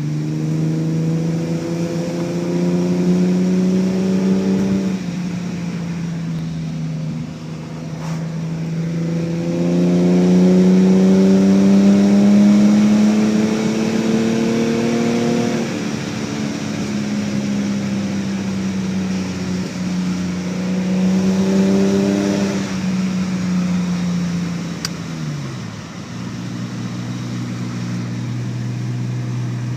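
BMW E30 325e's 2.7-litre straight-six, heard from inside the cabin through a cat-less exhaust with stainless headers, twin cherry bomb mufflers and a Magnaflow dual muffler. The engine note climbs and falls in pitch several times, then settles to a lower steady drone near the end.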